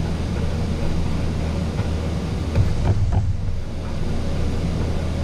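Steady low mechanical hum, like a motor or fan running, with a few faint ticks near the middle.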